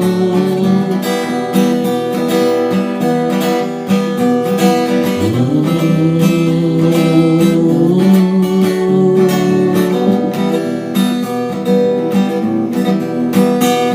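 Acoustic guitar strummed steadily, playing the chords of an instrumental introduction with no singing.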